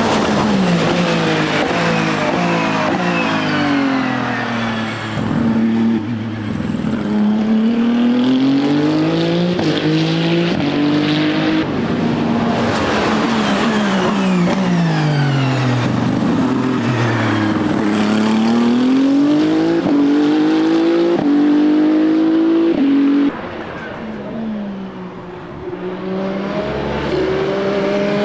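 Ferrari 499P hypercar's twin-turbo 120° V6 at racing speed, its pitch dropping in steps on downshifts into braking and then climbing in steps through the upshifts, several times over. About 23 seconds in the level drops suddenly, then builds again near the end.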